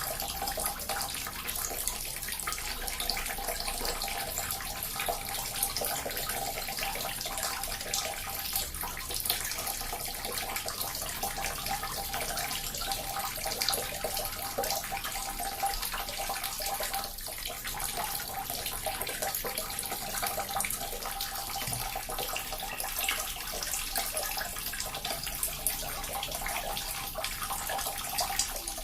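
Small water fountain splashing: a steady, continuous trickle and patter of falling water, with a faint steady hum underneath.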